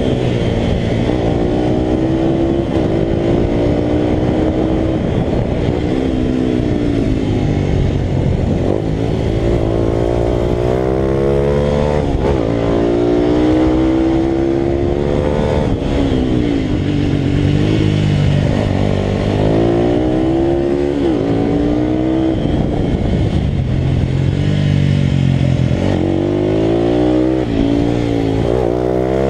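Italika RT200 race motorcycle's single-cylinder four-stroke engine at racing speed, its pitch climbing under acceleration and dropping again every few seconds through gear changes and braking.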